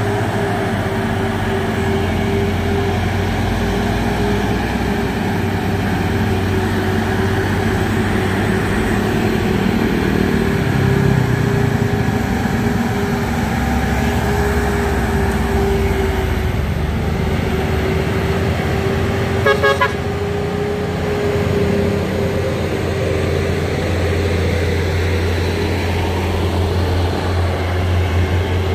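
Heavy trucks' engines running steadily on a climb, with a constant whine over a low hum. A short double horn toot sounds about two-thirds of the way through.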